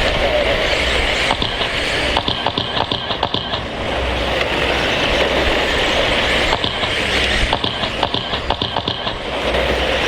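A pack of 13.5 stadium RC trucks with brushless electric motors racing on a dirt track. The motor and tyre noise swells and fades as the pack laps, with a rattle of clicks and clatter each time it comes by, about every five seconds.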